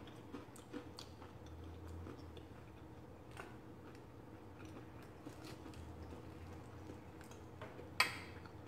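Faint chewing of a bite of breaded fried cod, with small scattered mouth clicks. A sharper click near the end as a metal fork meets the plate.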